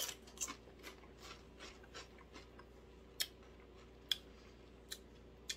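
A tortilla chip being chewed: short crisp crunches, close together in the first two seconds, then about one a second.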